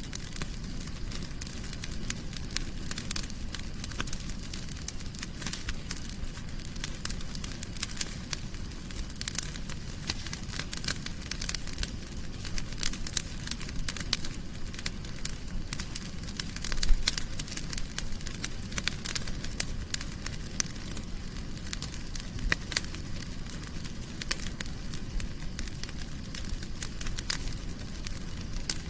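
Wood fire burning in a fireplace, crackling steadily with many irregular sharp pops over a low rumble of the flames; one louder pop about halfway through.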